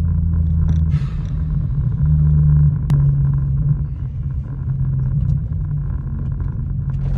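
Single-turbo BMW 335i's N54 inline-six engine running at low, steady revs, a loud low drone with rumble. Its pitch shifts in small steps a couple of times, and there is a sharp click about three seconds in.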